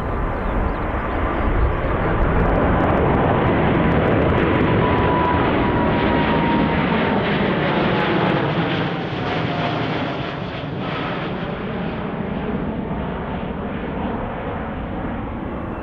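Jet airliner passing close, its engines making a loud, steady rush with a whine that slides down in pitch as it goes by. The sound eases off somewhat in the last few seconds.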